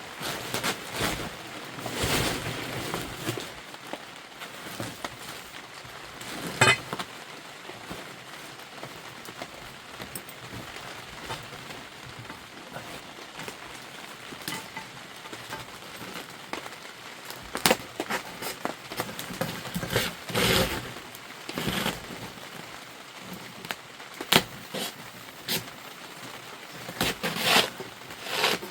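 Steady rain hiss, with scattered sharp knocks and short rustling bursts every few seconds.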